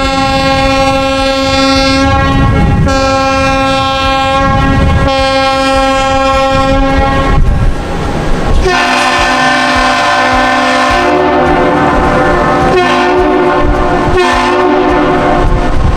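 Two large air horns sounding long blasts in turn. One chord horn gives three long blasts, then a second horn at a different pitch follows with several more.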